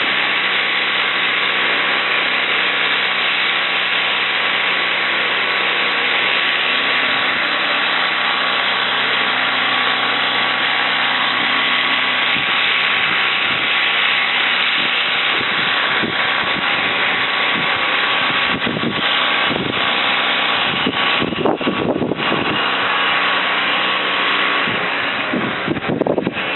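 A small motor running steadily under a dense hiss, with a few short knocks in the last third.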